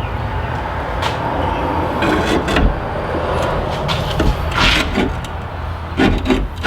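Knocks and rattles of a new bench blade sharpener being handled and set up, several sudden clatters at irregular intervals. Under them runs a steady low engine-like hum.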